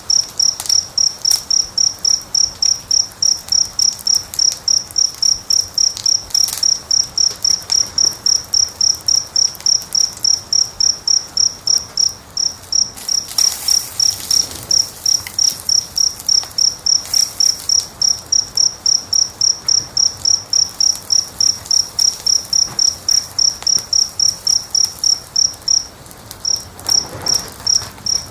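A cricket chirping steadily, about three short high-pitched chirps a second, with a brief pause near the end. Under it a wood fire crackles faintly.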